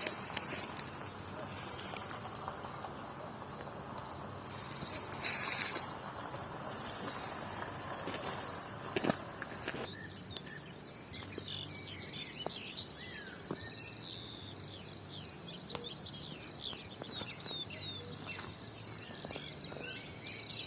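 Crickets trilling in one continuous high-pitched drone, joined about halfway through by many short, falling chirps. A brief rustle and a couple of sharp clicks come in the first half.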